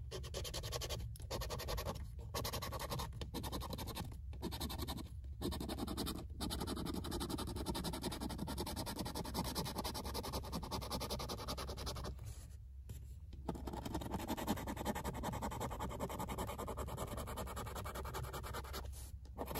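Scratch-off lottery ticket having its coating scraped off in long runs of steady scratching, broken by brief pauses and one longer pause past the middle.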